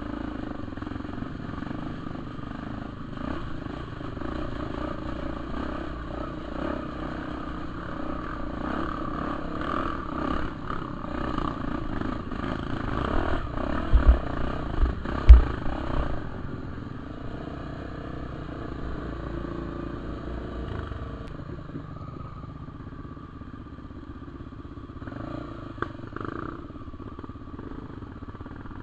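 Honda Tornado 250 dirt bike's single-cylinder four-stroke engine running while riding a muddy trail, its pitch rising and falling with the throttle. A few heavy thumps about halfway through.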